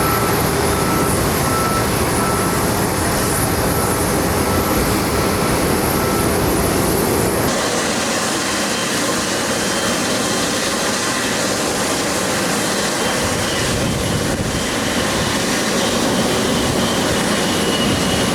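Jet airliner engines running loud and steady: first an Airbus A330 taxiing, then, after an abrupt change about seven seconds in, an Airbus A320 departing.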